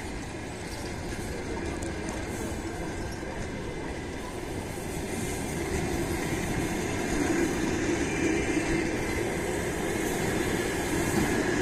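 Passenger coaches of a departing train rolling past at low speed, their wheels running over the rails. The sound gets louder about halfway through.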